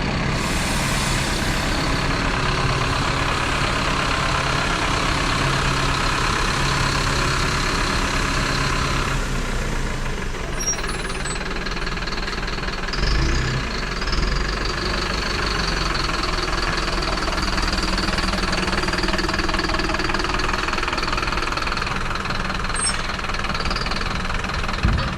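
Mercedes-Benz Atego hooklift truck's diesel engine running steadily. A steady hiss sits over it for about the first nine seconds and then cuts off suddenly, and there are a couple of brief louder knocks a few seconds later.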